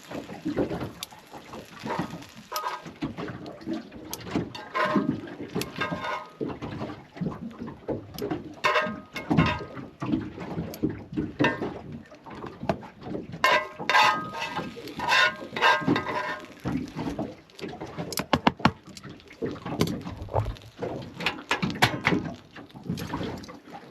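Handling of food and utensils while cooked fish is mixed into a bowl of salad: irregular knocks, scrapes and rustles.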